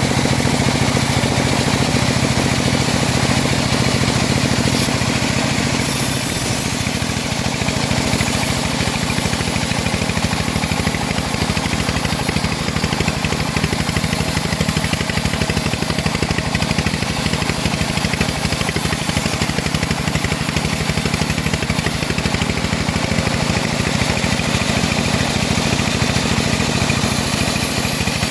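Engine of a home-built bandsaw mill running steadily at a constant speed, with a rapid, even pulse, while the mill saws old teak logs.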